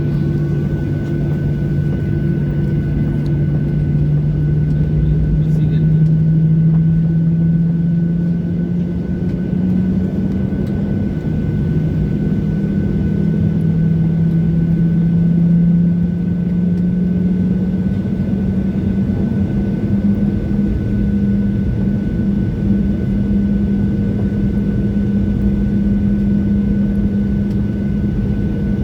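Boeing 737-800 jet engines running, heard inside the cabin: a loud steady hum whose pitch rises slowly, with a thin steady high whine above it.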